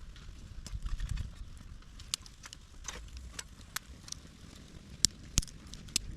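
Campfire crackling, with irregular sharp pops, the loudest a little after five seconds in, over a low rumble.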